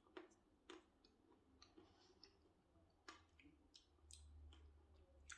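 Near silence with faint, scattered clicks and taps of eating: a spoon digging into a cup of Blizzard ice cream with crunchy candy cane pieces.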